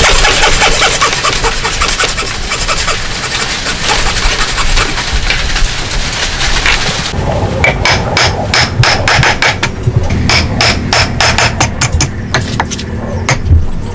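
Hand tools working wood: about seven seconds of continuous fast scraping or rasping, then a sudden change to a run of quick, sharp taps or knocks.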